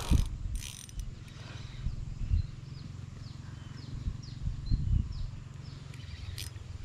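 A bird calling a quick run of short, high, falling notes over a low rumble of wind or handling, with a few dull low thumps.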